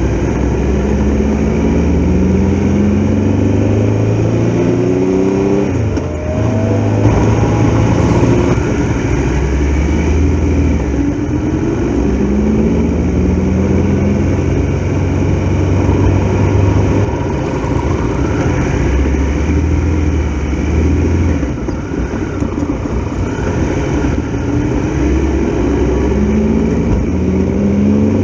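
Triumph Tiger Explorer XRx's three-cylinder engine accelerating through the gears while riding. Its pitch climbs and drops back at each shift, several times over, with wind rushing over the microphone.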